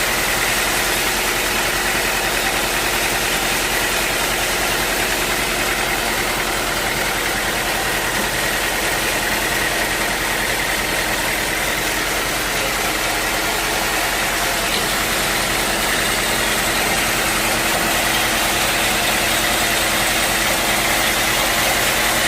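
Sawmill machinery running steadily: a continuous mechanical drone with a steady high tone over it and no breaks.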